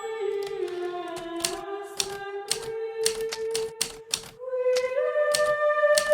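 Hermes Baby typewriter keys striking in an uneven typing rhythm, about two or three strokes a second, over soft background music with a slow melody of long held notes.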